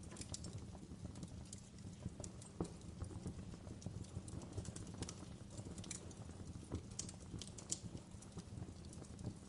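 Campfire burning with a steady low rumble of flames and frequent irregular crackles and pops from the burning wood.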